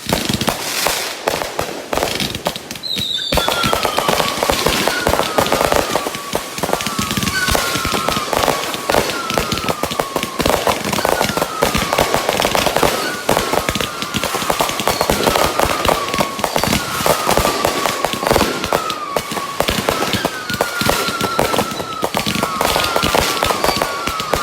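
Consumer fireworks finale: a dense, continuous barrage of crackles and bangs from many devices firing at once. From about three seconds in, many short falling whistles overlap the barrage.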